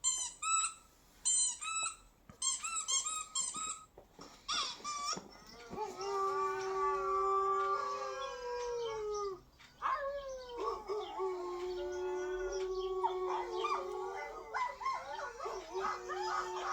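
A dog whining in short, high, squeaky calls, then howling: two long held howls, the second opening with a falling note, followed by more howling and whining near the end.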